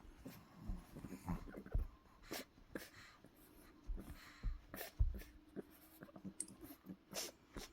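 Scattered rustling, scraping and light clicks and knocks of hands handling a fidgeting dog while its eyes are wiped clean, with a few low thumps.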